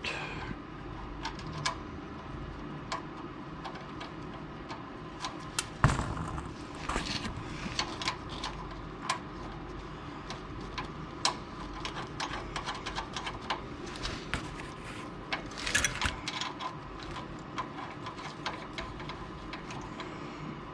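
Irregular metallic clicks and knocks from a steel exhaust clamp being handled and fitted around the exhaust pipe, with a louder knock about six seconds in and a cluster of clicks near sixteen seconds.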